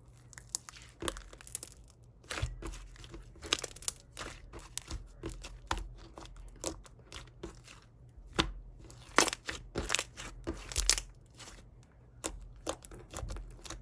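Crinkly material handled by hand, torn and crumpled in an irregular series of short rustles and sharp clicks.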